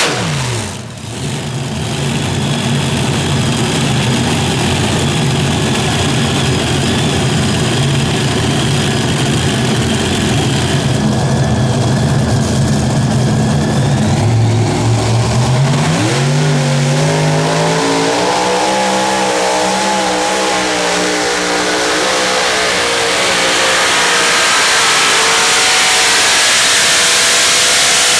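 Super Modified pulling tractor's engine running hard under load on a pull. Its note holds steady, dips about halfway through and climbs sharply again, then slowly sinks toward the end.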